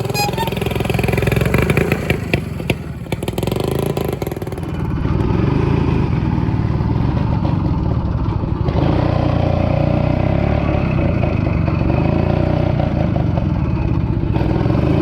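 Francis Barnett Falcon 200's 197cc Villiers two-stroke single running, with a few clattering knocks about two to three seconds in, then settling to steady running. The engine is not running right, which the owner puts down to a carburettor that needs a good clean.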